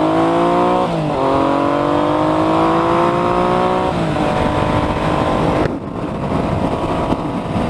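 Triumph Legend 900 TT's three-cylinder engine accelerating through the gears, its pitch climbing and then dropping at upshifts about one second and four seconds in. About six seconds in, the engine tone gives way to a steady rush of noise.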